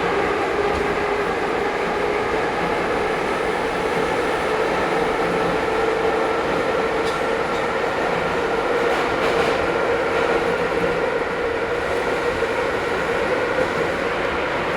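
Ezh3 metro train running at speed between stations, heard from inside the car: a steady rumble of wheels on the rails with a steady, even whine over it and a few faint clicks partway through.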